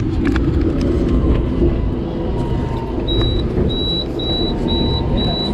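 Hong Kong double-decker tram running, a steady low rumble heard inside the lower deck. A high, thin beep starts repeating about twice a second about three seconds in.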